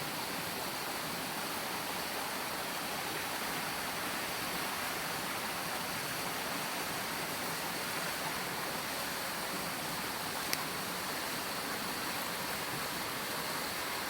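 Steady, even rushing noise of outdoor ambience, with one sharp click about ten and a half seconds in.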